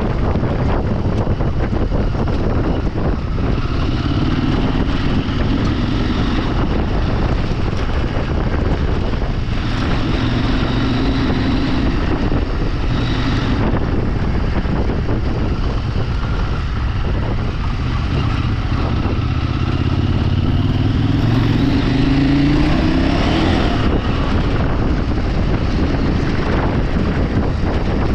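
Engine of an off-road vehicle under way, its pitch rising and falling with the throttle over a steady rush of wind on the microphone, climbing noticeably near the end.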